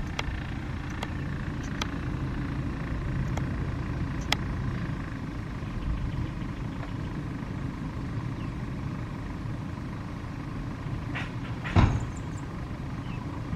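Steady low rumble of the Airbus A350-1000's jet engines during its takeoff, with a few light clicks and one sharp knock near the end.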